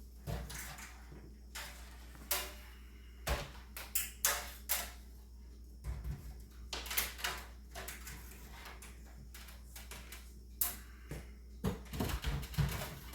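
Handling noise: a string of scattered knocks and clicks as objects are moved about and set down, over a faint steady low hum.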